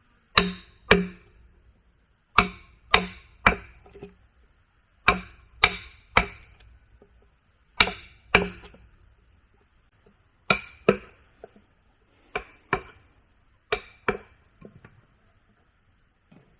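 Sharp, ringing strikes of a tool on wood, in groups of two to four about half a second apart, with short pauses between the groups.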